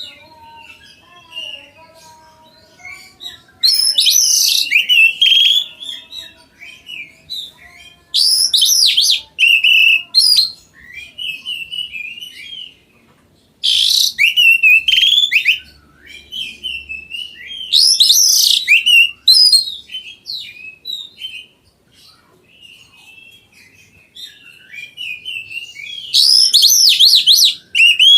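Oriental magpie-robin (kacer) singing: loud, varied phrases of whistles and sweeping notes come in bursts every four to five seconds, with softer chirps and twitters between them.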